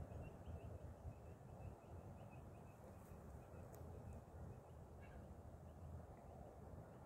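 Near silence outdoors: a low steady rumble of background noise, with a small bird chirping faintly in a quick run of short notes over the first four seconds.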